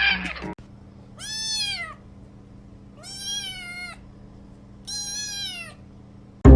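Domestic cat meowing three times, each meow rising and then falling in pitch, about two seconds apart.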